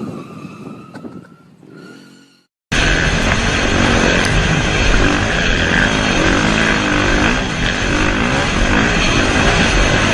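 Motorcycle engine revving, its pitch rising as it fades away over about two seconds, then a sudden cut to a louder motorcycle engine running hard with a wavering pitch.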